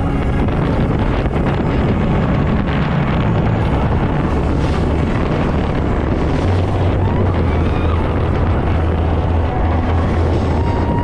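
900-horsepower speedboat running at speed, its engines giving a steady low drone under heavy wind buffeting on the microphone.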